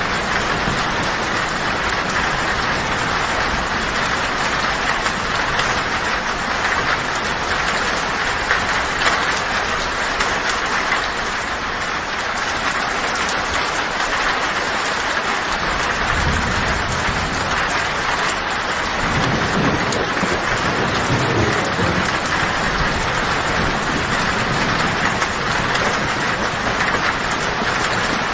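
Heavy rain drumming steadily on a tin roof, with thunder rumbling low from about 16 to 22 seconds in.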